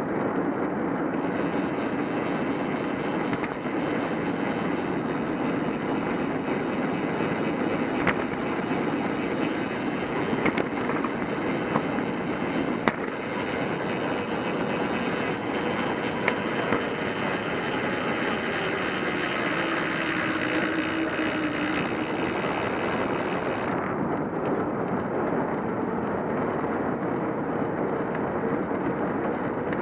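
Steady rushing noise of a bicycle ride: wind on the microphone and the tyres on the road, with a few sharp clicks. A higher hiss joins about a second in and drops away suddenly near the end.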